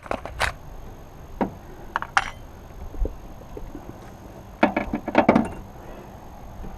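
Metal clicks and clinks of a 12 mm spanner or socket working on a car battery's terminal or hold-down nut: a few scattered clinks, then a quicker cluster about five seconds in.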